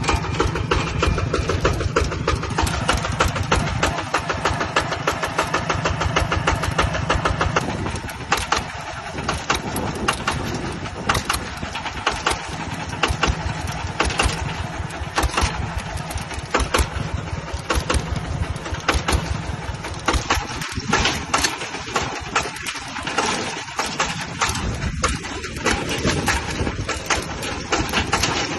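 Single-cylinder diesel engine of a small two-wheel (walk-behind) tractor running with a rapid, even chug; its note changes and gets slightly quieter about eight seconds in.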